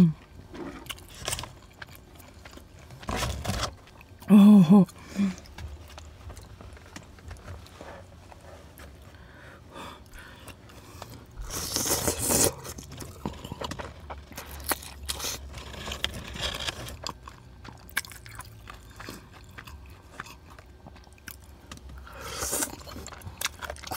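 Close-miked eating of chewy tteokbokki rice cakes in a spicy cheese sauce: chewing with many small wet mouth clicks. There is a loud hissing burst of breath about twelve seconds in and again near the end.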